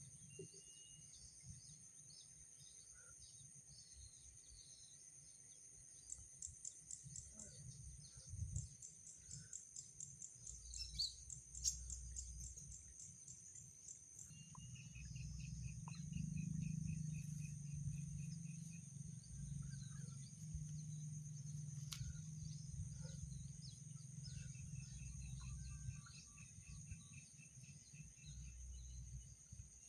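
Outdoor field ambience: a steady high insect drone, with trains of rapid chirping calls now and then. A low rumble comes in about halfway through.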